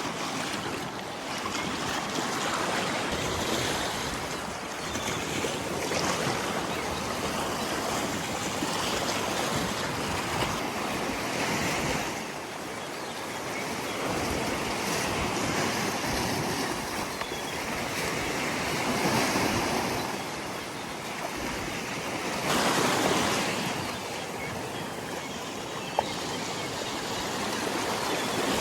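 Sea waves breaking and washing up, the noise swelling and easing again every few seconds, with some wind.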